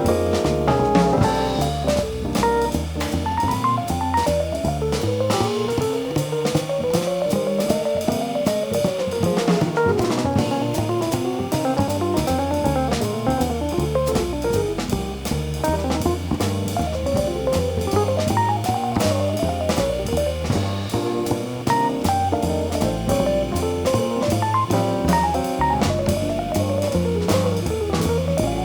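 Live jazz combo playing: an electric jazz guitar plays fast runs of single notes that climb and fall, over stepping bass notes and a drum kit with busy cymbals.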